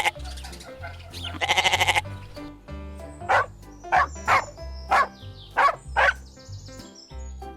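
Swan calls: two long, pulsing honks, then a run of short honking calls, over background music with a steady bass beat.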